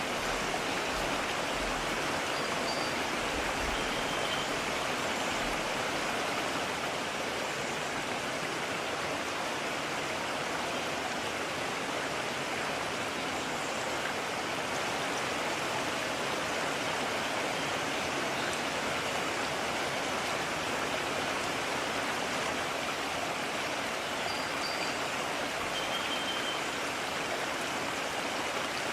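Mountain stream flowing: a steady rush of water, with a couple of faint high chirps near the start and again near the end.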